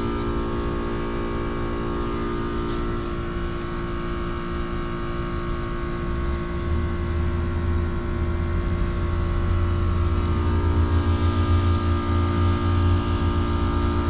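2009 Carrier base-model heat pump outdoor unit running with a steady hum made of several tones. About six seconds in, a deep, fluttering rumble builds and the sound grows louder toward the end.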